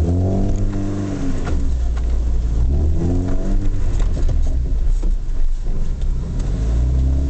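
Mercedes 230GE's four-cylinder petrol engine heard from inside the cab, revving up and easing off in three spells as the vehicle drives over rough ground, with a few knocks and rattles.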